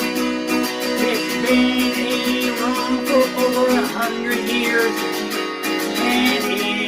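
Acoustic guitar strummed in a steady rhythm, carrying the instrumental passage between verses of a song.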